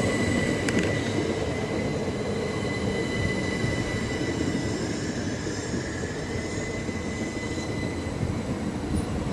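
Two coupled Class 375 Electrostar electric multiple units running slowly into the platform, a steady rumble of wheels on track with a steady high whine that fades out about eight seconds in. A single click sounds just under a second in.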